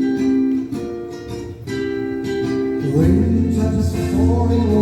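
Song intro played on acoustic guitar: separate chords ring out one after another, and a fuller accompaniment with a steady low bass comes in about three seconds in.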